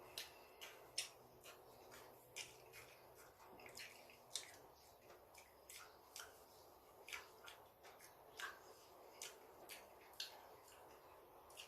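Close-miked eating: chewing with irregular wet mouth clicks and smacks, one or two a second, over a faint steady hiss.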